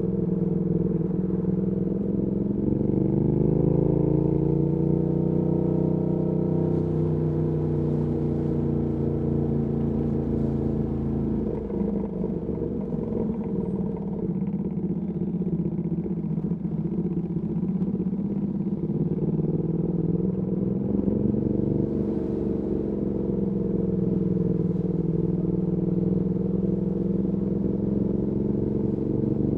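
Ducati Panigale V2S's V-twin engine running through a Termignoni exhaust while riding: revs climb a couple of seconds in and again about two-thirds of the way through, holding fairly steady in between.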